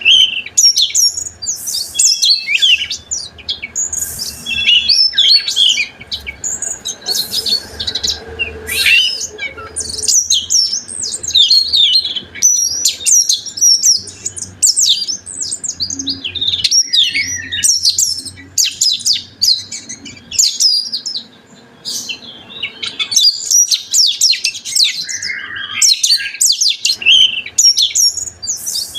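Oriental magpie-robin (kacer) singing a fast, nonstop string of varied whistles, chirps and trills, its song full of mixed-in phrases (isian), with a brief pause about three-quarters of the way through.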